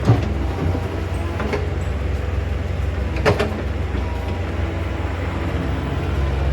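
Excavator's diesel engine running steadily, with two sharp knocks about three seconds apart as it works stony soil.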